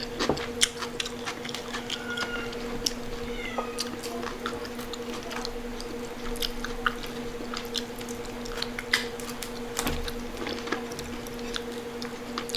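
Chewing and crunching of crispy deep-fried pork knuckle skin, heard as many short sharp crackles. A steady electrical hum runs underneath.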